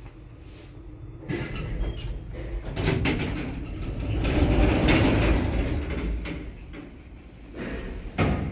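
ShchLZ elevator, the loud one, its car and automatic sliding doors working: a mechanical rumble and clatter that builds, peaks in the middle and fades, then a short clatter near the end.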